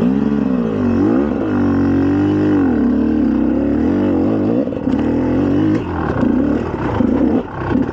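2004 GasGas EC300's 300cc single-cylinder two-stroke engine revving up and down with the throttle as the dirt bike is ridden. From about five seconds in the engine note turns choppy and uneven, with a few short knocks.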